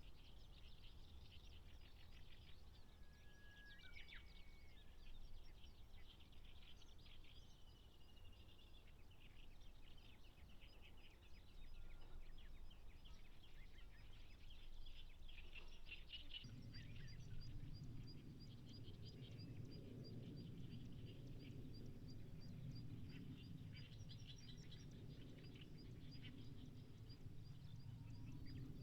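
Faint outdoor ambience of small birds chirping, with a few short whistled notes. A quick series of high ticks repeats steadily from about a third of the way in. A low rumble joins a little past halfway.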